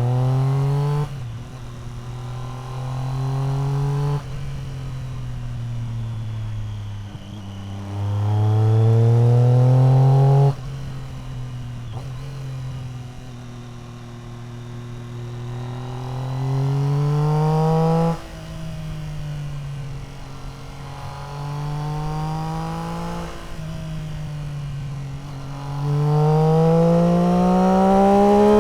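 Triumph Street Triple R inline-three through an Arrow aftermarket exhaust, ridden hard: the engine note climbs in several strong pulls, each cut off suddenly as the throttle closes, and falls away in pitch on the overrun between them.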